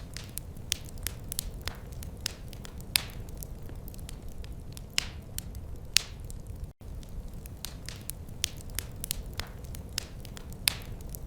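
Wood fire crackling in a fireplace: irregular sharp crackles and occasional louder pops over a steady low rumble of the burning. The sound drops out for a split second a little past the middle.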